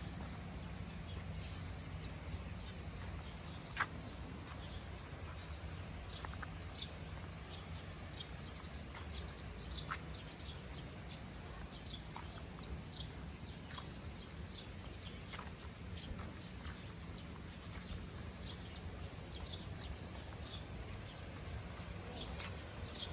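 Birds chirping: many short, high chirps scattered irregularly throughout, over a low steady rumble. A single sharp click about four seconds in.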